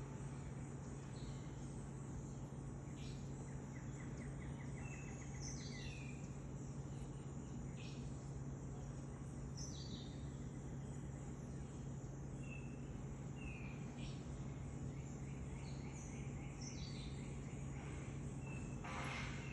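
Birds calling faintly: short high notes, several falling in pitch, repeating every second or two, with a brief trill about three seconds in and a short harsh call near the end, over a steady low hum.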